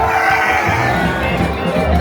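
Live band music with a crowd shouting and cheering over it.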